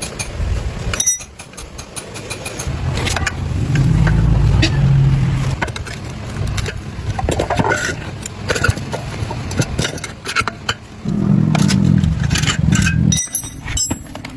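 An engine running and revving up twice, with sharp metallic clicks and knocks in between.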